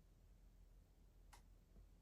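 Near silence with one faint, short click about two-thirds of the way through.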